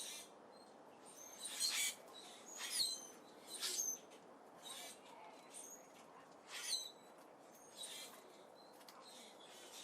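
Small birds at a seed feeder: short high chirps about once a second, mixed with brief rustles of wing flutter.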